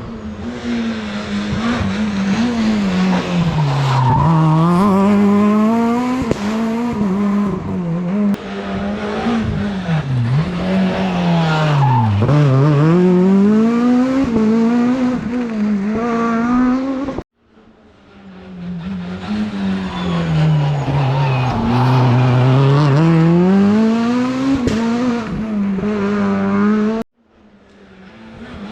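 Rally cars driven hard on a stage, each engine revving up and dropping sharply again and again as the driver brakes, shifts and accelerates. The sound breaks off abruptly twice, and each time another car's engine comes in.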